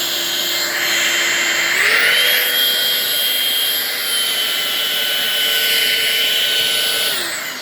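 Eufy HomeVac S11 cordless stick vacuum's motor running with a steady whine, stepping up in pitch about two seconds in as it is switched to maximum power, then cutting out and winding down near the end. The owner takes the shutdown for a fault with the long attachment: at full power the vacuum switches off and reads as if the battery were flat, though it is fully charged.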